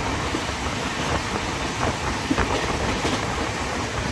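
Passenger train running at speed, heard at the open doorway of a coach: a steady rush of wheel-and-rail noise with a few faint clicks as the wheels pass over the track.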